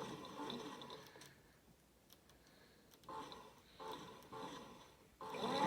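Faint clicks and short whirs from a toy washing machine, then near the end its small drum motor starts up and runs steadily with a high whine while the door is open.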